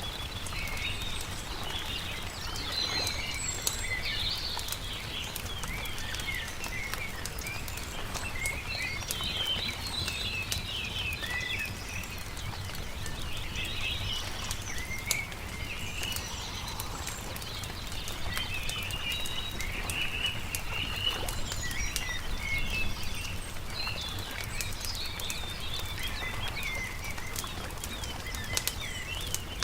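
Small songbirds chirping and singing continuously in short bright phrases, over the scattered sharp pops and crackles of a wood campfire, with a steady low rumble underneath.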